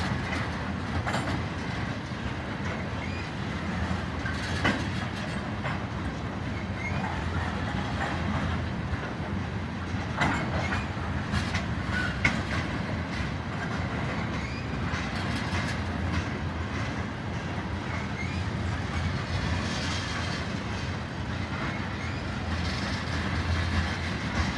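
A long freight train of loaded oil tank cars rolling past slowly, its wheels rumbling steadily on the rails with irregular sharp clicks and clanks as they cross rail joints.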